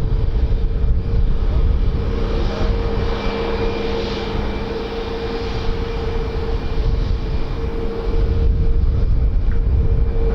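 Airliner engines running steadily: a continuous low rumble with a held, steady hum over it, easing slightly midway.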